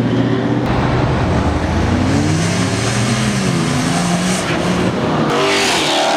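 Performance cars accelerating hard as they pull away, their engine notes climbing and dropping through gear changes. A louder engine rises sharply with a rasping rush near the end.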